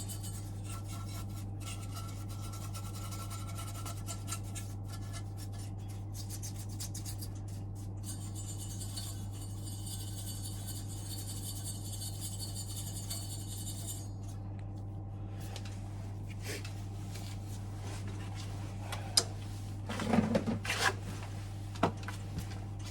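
Rubbing and scraping from cleaning dust off boiler fan and burner parts, over a steady low hum. There is a hiss in the middle and a few sharp knocks of handled parts near the end.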